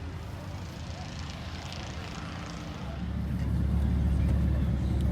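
A car engine running close by with a deep, steady rumble that gets noticeably louder about three seconds in, as if the car pulls closer or the engine is revved.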